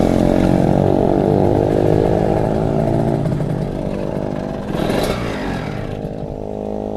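Motorcycle engine running while riding, its note fairly steady and slowly easing off, with a brief louder surge about five seconds in.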